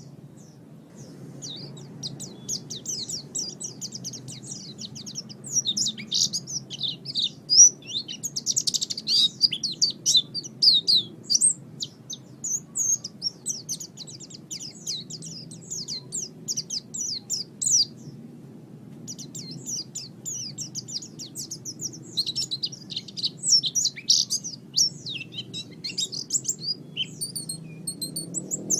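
White-eye (pleci) singing a fast, high twittering song in long runs of rapid chirps, with a short pause about two-thirds of the way through. A faint low hum runs underneath.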